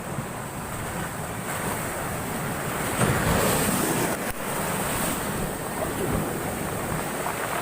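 Heavy storm surf pounding the shore, a steady roar that swells louder as a big wave breaks about three seconds in, with wind buffeting the microphone.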